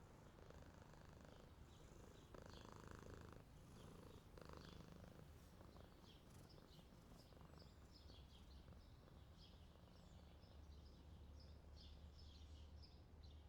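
A ginger stray cat purring faintly, a steady low rumble that swells near the end, with small birds chirping faintly in the background.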